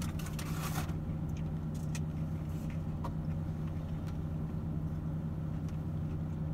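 A car's engine idling in the cabin, a steady low hum, with a brief rustle in the first second and a few faint clicks later on.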